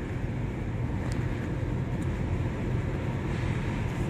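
Car's road and engine noise heard from inside the cabin while driving: a steady low rumble.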